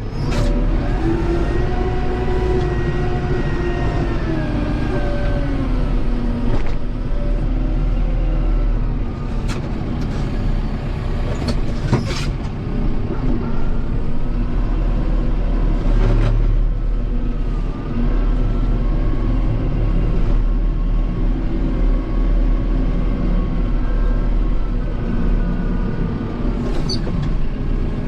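Kubota M7060 tractor's diesel engine running steadily, its pitch rising and then falling back as it works a snow pusher, with a few sharp knocks from the equipment.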